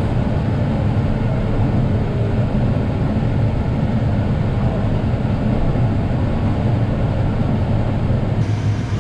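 Kubota M8 tractor engine running steadily, a low drone heard from inside the cab.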